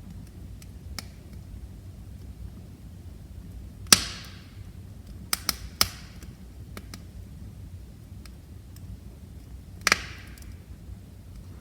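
Wood fire burning with a low steady rumble, crackling with sharp pops: a loud one about 4 seconds in, a quick cluster of three a second or two later, and another loud one near 10 seconds, the loud pops each trailing off in a brief hiss.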